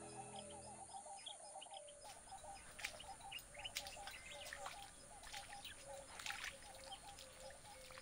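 Faint wildlife ambience of birds calling: a quick run of short chirps repeating without pause, with higher chirps and a few sharp clicks mixed in.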